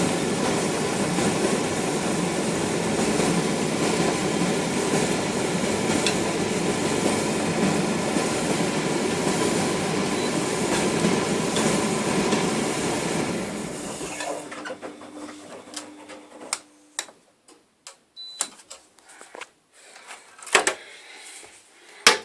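Laundry machine running loudly and steadily, then winding down about 14 seconds in. A faint hum and a series of sharp clicks and knocks follow.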